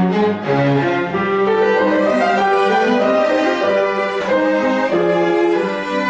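Piano quartet playing classical chamber music: violin, viola and cello in held and moving bowed lines over piano.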